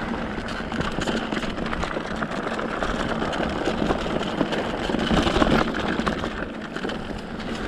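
Mountain bike being ridden on a dirt trail: steady rolling noise with scattered small clicks and rattles.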